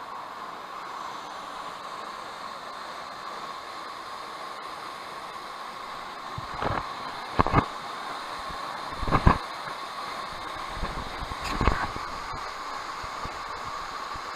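Waterfall: a steady rush of falling water, with a few louder buffets on the microphone in the middle, the strongest about nine seconds in.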